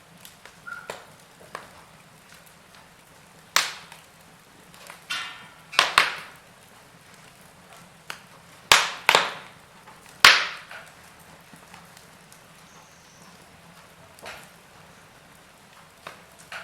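Wood fire in a fireplace crackling, with scattered sharp pops and snaps over a faint steady hiss. A quick run of crackles comes about five to six seconds in, and the loudest pops come around nine to ten seconds in.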